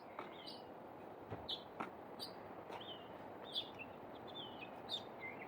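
Faint songbird chirps outdoors: short, high chirps repeating irregularly every half second or so, with a couple of soft clicks about a second and a half in.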